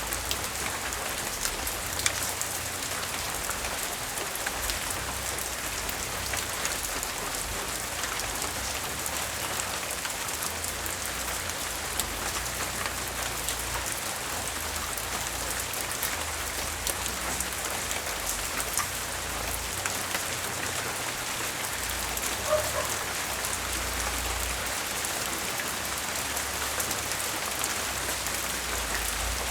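Light rain falling steadily, with many separate drops ticking on a surface over an even hiss, and an uneven low rumble underneath.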